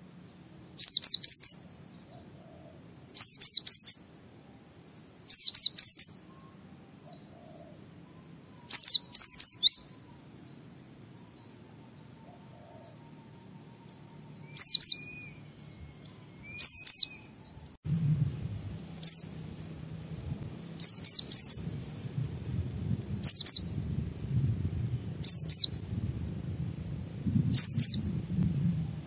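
White-eye (pleci) singing in short, high, rapid chirping phrases, each under a second, repeated every couple of seconds with a longer pause midway. A low background rumble joins about two-thirds of the way through.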